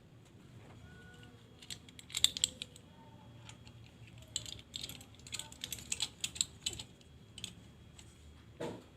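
Small metal parts and tools being handled, giving irregular light clicks and clinks, with a duller knock near the end.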